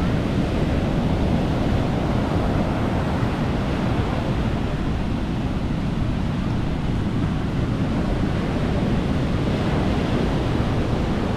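Sea waves washing onto a beach, with wind rumbling on the microphone; a steady, unbroken wash of noise.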